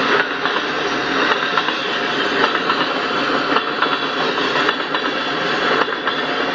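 Freight train of tank cars rolling past: a steady rumble and hiss of steel wheels on the rails, with irregular clacks as the wheels cross rail joints.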